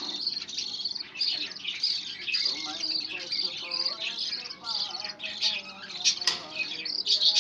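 Budgerigar chatter: a continuous run of high chirps and warbling notes, with a sharp click-like note about six seconds in.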